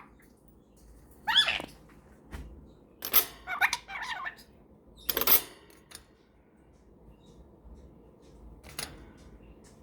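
Pet parrots giving short chirps and squawks: one call about a second in, a quick run of calls around three to four seconds, a louder call about five seconds in and a faint one near the end.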